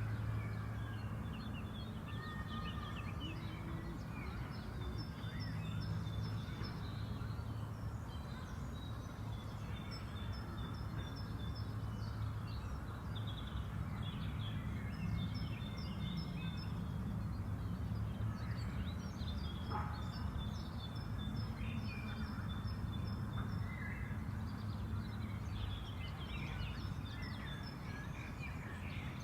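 Several small birds chirping and singing in short, quickly repeated trills over a steady low background rumble.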